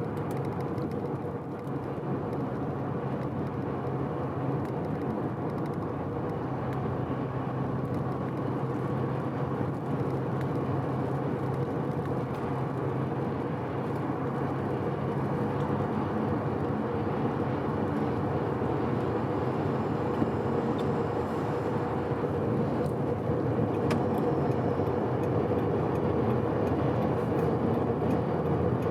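Mazda FD3S RX-7's 13B twin-rotor rotary engine and tyre noise while cruising steadily on an expressway, held at gentle throttle because the freshly rebuilt engine is being broken in. The drone grows slightly louder toward the end.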